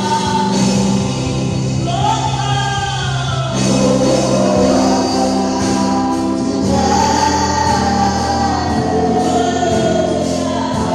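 Choir singing a gospel song with instrumental accompaniment, long held sung notes over a steady bass.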